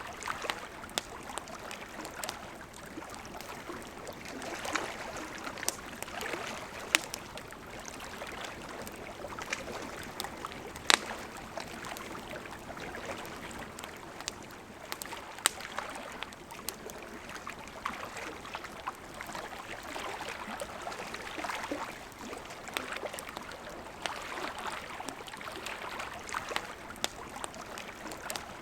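River water flowing steadily, with a wood campfire crackling over it in scattered sharp pops; one pop a little before the middle is the loudest.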